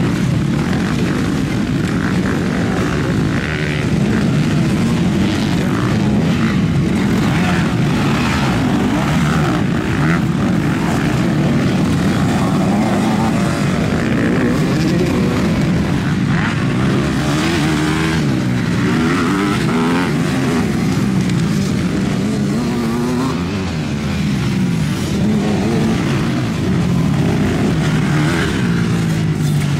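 A field of off-road motorcycles racing, several engines overlapping and revving up and down continuously.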